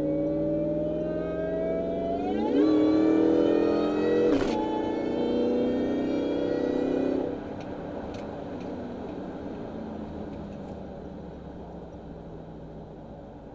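Ford SVT Lightning's supercharged 5.4-litre V8 under acceleration, with a lightly ported Eaton supercharger and filled silencer ports giving a loud supercharger whine over the engine. The pitch climbs, jumps up about two and a half seconds in, and stays loud with a sharp click midway. Then it drops off about seven seconds in as the throttle is released, leaving quieter steady running.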